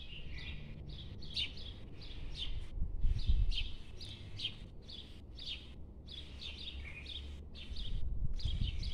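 Small songbirds chirping and twittering in quick, busy runs, over a low rumble that swells about three seconds in and again near the end.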